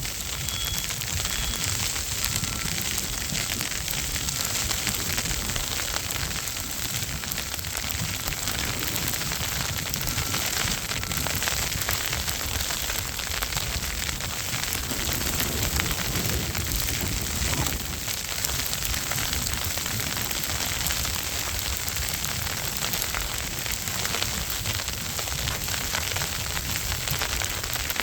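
Wind buffeting the microphone in a snowstorm: a rough, steady rumble with a constant crackling hiss over it, keeping an even level throughout.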